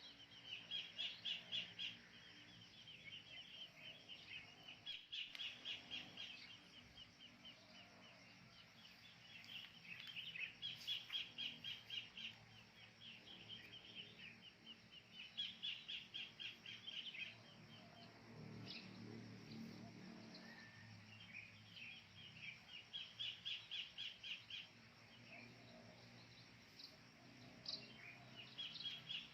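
Wild birds calling: repeated bouts of fast, evenly pulsed chattering notes, each bout a second or two long, coming back every few seconds over a faint steady background hum.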